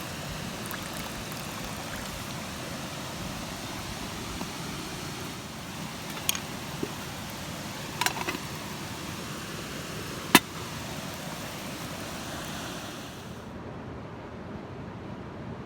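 Steady rush of a waterfall and mountain stream, with a few sharp knocks standing out over it, the loudest about ten seconds in.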